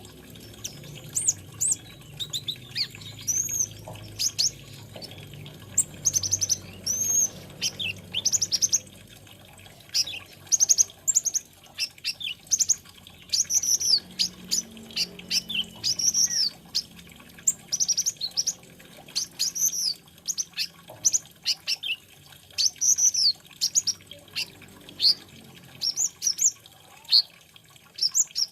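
Sunbird known as kolibri ninja (konin) singing a fast, busy string of high, thin chirps and short arched notes, with only brief pauses.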